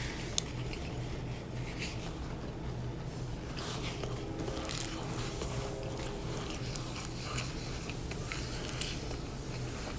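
Close-up eating of crunchy shrimp tacos: bites and chewing with scattered crisp crunches, over a steady low hum.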